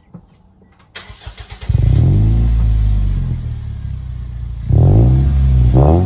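Second-generation Toyota Vios with a Magnaflow aftermarket exhaust being started: about a second in the starter cranks briefly, the engine catches with a loud flare that falls back to idle, then two quick throttle blips near the end.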